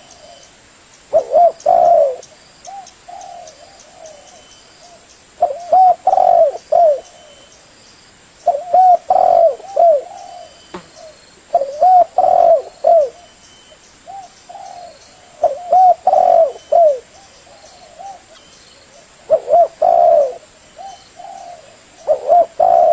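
Spotted dove (tekukur) cooing: seven phrases of several quick, arched coos, one phrase every three to four seconds, with fainter coos between them.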